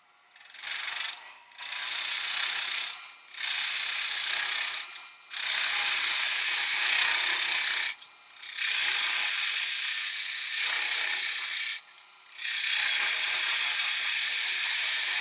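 A spindle gouge cutting a spinning wood blank on a woodturning lathe, rounding it over into a dome. It makes a loud, high-pitched hiss in six passes of one to three seconds each, with short breaks between them.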